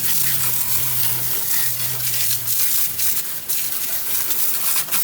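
Water spraying onto the engine bay in a dense, flickering hiss, rinsing off soaked-in degreaser. A low steady hum runs under it for the first two and a half seconds or so.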